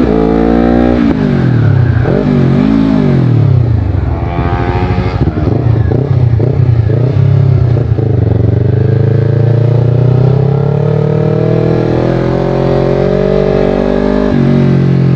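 Honda CBR250RR with a Yoshimura aftermarket exhaust being ridden hard. The revs fall and waver over the first few seconds, then climb steadily for several seconds and drop suddenly near the end, as at a gear change.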